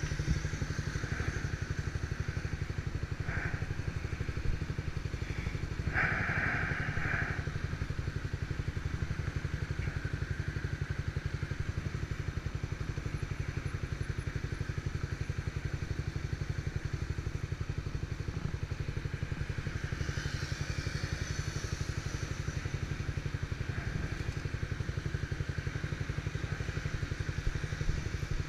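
Motorcycle engine running steadily under way, with a fast even low pulse. About six seconds in there is a brief, louder mid-pitched sound over it.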